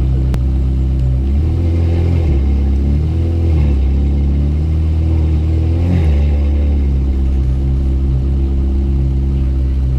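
Ferrari F430 Scuderia's V8 engine running at low speed, its note rising and falling a few times with light throttle.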